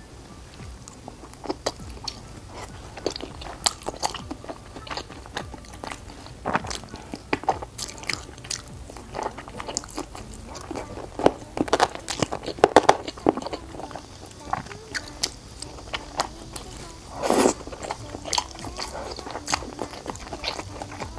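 A person biting and chewing pieces of sweet and sour pork rib, giving many short, sharp mouth clicks. They come thickest around the middle, with one longer, louder sound about three-quarters of the way through.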